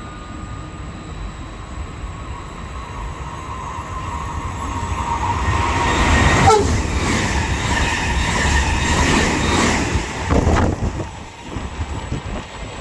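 Electric train running through the station: its noise builds up, passes loudly for about four seconds with a brief falling tone as it goes by, then drops away suddenly.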